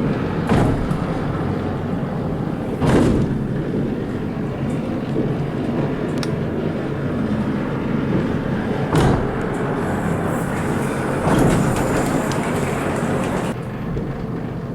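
Heritage train running along the line: a steady loud rumble with four short louder surges, and a high hiss for a few seconds past the middle.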